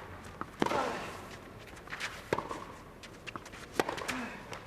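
Tennis ball struck by rackets in a baseline rally on clay: three loud hits about a second and a half apart, with fainter knocks between them, over a low crowd hum.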